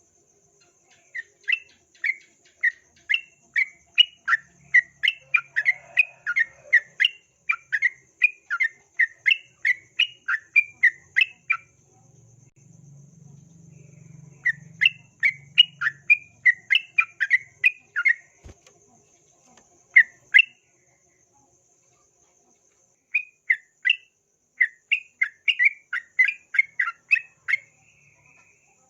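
Yellow-vented bulbul (trucukan) singing in rapid runs of short, bubbly repeated notes, in several bouts with short pauses between. A faint steady high insect tone runs underneath.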